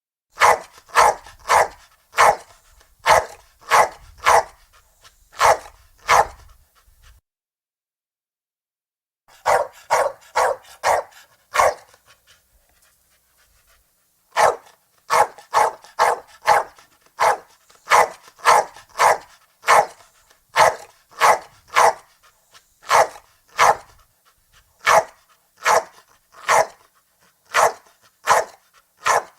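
Pomeranian barking in short, sharp yaps, one to two a second, in runs broken by two pauses of a couple of seconds, then barking steadily through the second half.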